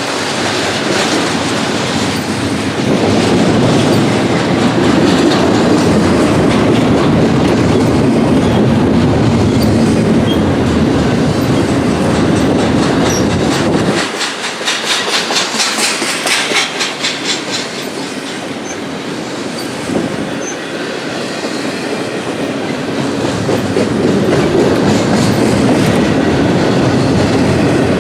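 Freight train rolling past close by: a steady rumble of steel wheels on rail, with a quick run of clickety-clack about halfway through as the car wheels pass over rail joints.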